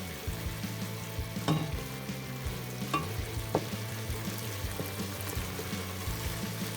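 Food sizzling steadily in a pan as it is stirred, with a few sharp knocks of the utensil against the pan, the loudest about a second and a half in.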